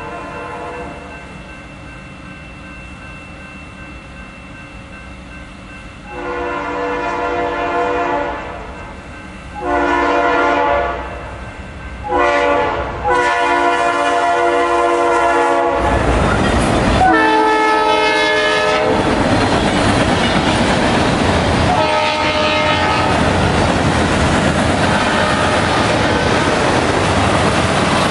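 Freight train's diesel locomotive air horn sounding a series of blasts as the train approaches a road crossing: one long, a shorter one, a short one, then a held blast. The locomotives pass close by about halfway through with a loud rumble. After that comes the steady roar and clickety-clack of freight cars rolling past, with a few more horn notes.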